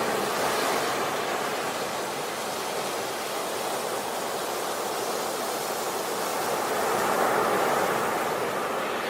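Sea waves breaking and washing on a beach: a steady rush of surf that swells as a wave breaks at the start and again a few seconds before the end.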